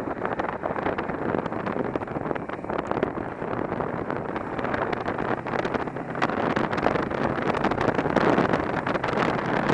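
Wind rushing and buffeting over the microphone of a motorcycle on the move, with a faint steady engine hum underneath; it grows a little louder near the end.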